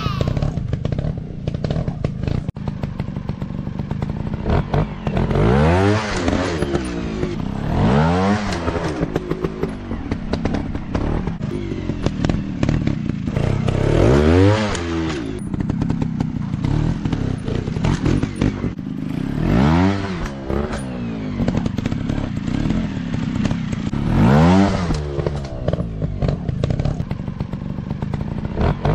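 Dirt-bike engines revving in repeated short surges, each rising and then falling in pitch, over a steady low rumble, with scattered clatters and knocks.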